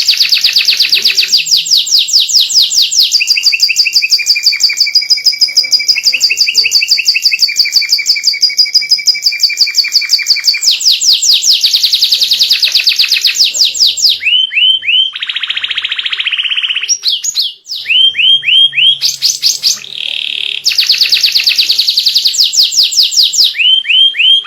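Domestic white canary singing a long, loud song of rapid trills: fast runs of repeated notes give way to shorter trills and buzzy rolls, with a couple of brief pauses in the second half.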